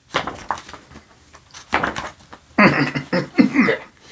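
A man's voice, in short stretches without clear words, loudest in the second half.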